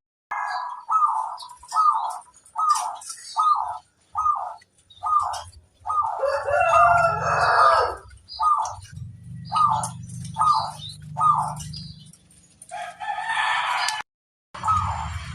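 Zebra dove (perkutut) cooing: a long series of short, hooked notes repeated about twice a second. A rooster crows once in the middle of the series.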